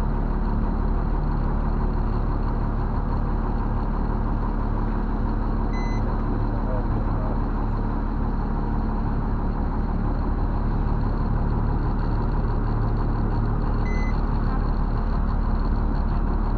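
Steady low drone of a 5-ton military truck's diesel engine running at low revs. Two short high electronic beeps come about eight seconds apart.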